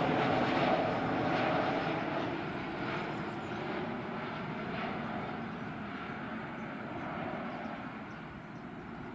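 Airliner's engines, a steady rush that fades gradually as the aircraft moves away.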